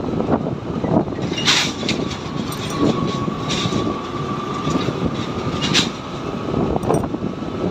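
Motorcycle riding along a road, its engine and road noise running steadily with scattered sharp clicks. A thin steady tone sounds from about one and a half seconds in until nearly six seconds.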